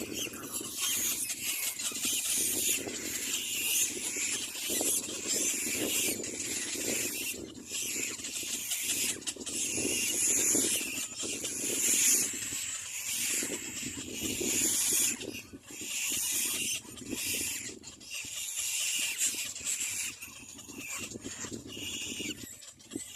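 Little black cormorant chicks squealing in a run of harsh, repeated bursts.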